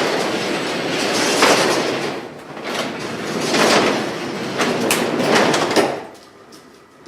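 A sectional garage door rolling along its tracks: a continuous rumble and clatter of the rollers that swells and eases a few times, then stops about six seconds in.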